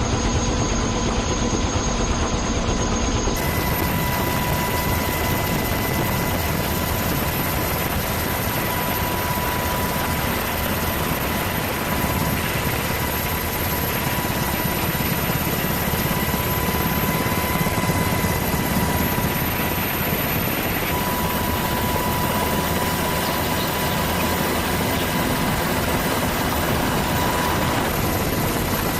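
Steady, loud aircraft engine noise, a dense rushing roar with a faint whine held throughout; the sound changes abruptly about three seconds in, as at a cut between clips.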